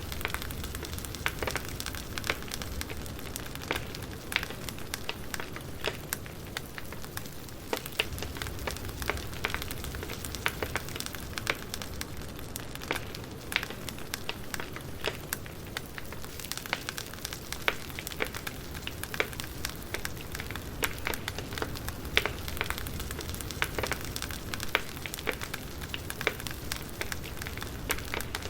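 Wood fire crackling steadily, with frequent irregular sharp pops and snaps over a low hiss and rumble of burning logs.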